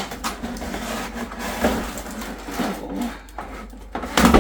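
Cardboard box and packaging being handled during unboxing: continuous rustling and scraping with several knocks, the loudest clatter near the end.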